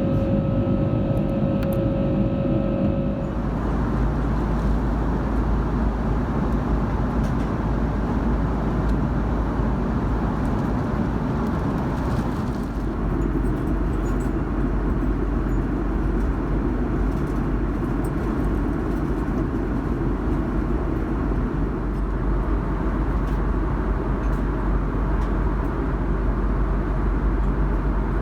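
Steady cabin noise inside an Airbus A340-600 airliner: a constant rumble and rush of engine and air noise, changing slightly in character about halfway through.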